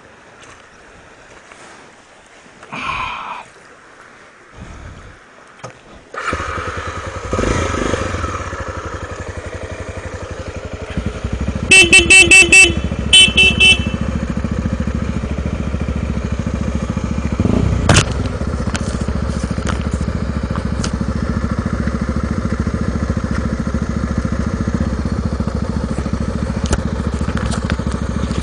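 A Honda Tornado trail motorcycle's engine starts about six seconds in, is revved, then runs steadily. About halfway through, its horn sounds in several short beeps, then two more.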